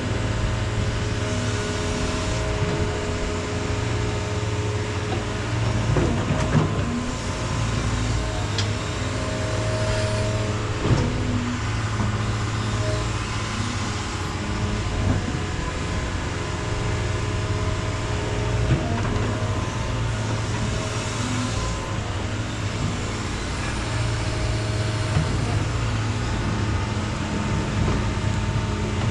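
Heavy equipment engine running steadily at a constant pitch, with a few short knocks scattered through.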